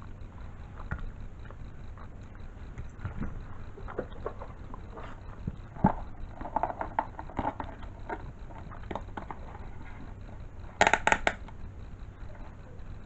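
Handling noises: scattered small clicks and knocks, busier about six seconds in, then a quick run of about four sharp, loud clicks near the end, over a steady low hum.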